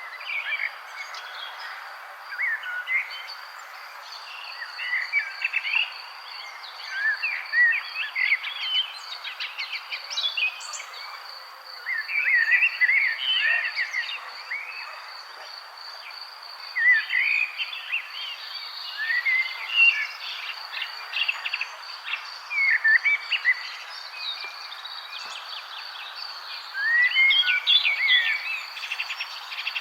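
Several songbirds chirping and trilling in bursts over a steady, high-pitched insect trill and a faint even hiss.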